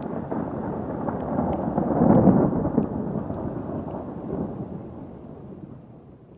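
Thunder rumbling: a low roll that swells to its loudest about two seconds in, then slowly fades away.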